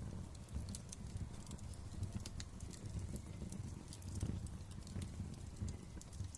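Wood fire crackling: many sharp, irregular pops and snaps over a low steady rumble of the flames.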